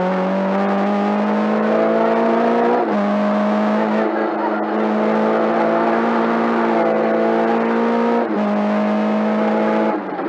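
Lada 21011 rally car's engine heard from inside the cabin, pulling hard with its pitch climbing slowly through the gears. It breaks off briefly twice, about three and eight seconds in, where it shifts up, and eases off near the end.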